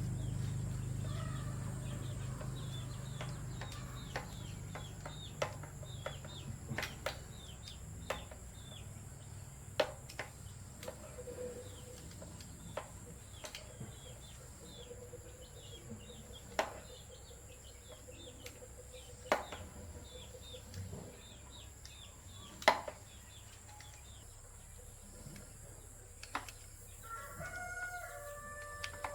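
Chickens in the background: many short falling peeps early on and a pitched call near the end. Scattered sharp taps and knocks sound throughout, and a low hum fades away over the first several seconds.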